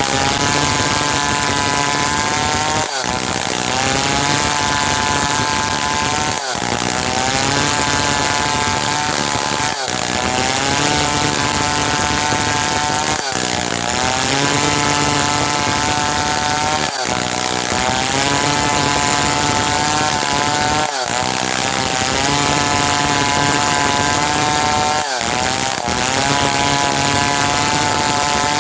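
Stihl 070 two-stroke chainsaw running at high revs under load, sawing hardwood timber. The engine note breaks off briefly every three to four seconds, then its pitch climbs back up.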